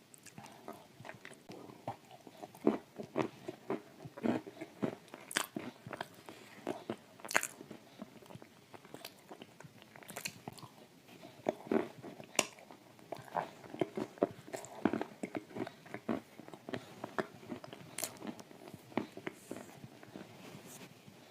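Close-up chewing of dry shortbread cookies coated in thick clay paste: irregular crisp crunches and crackles, with wet mouth sounds between bites.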